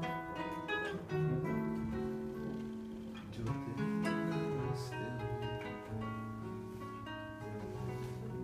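Acoustic guitar playing the instrumental introduction of a song, plucked and strummed chords ringing on with no voice.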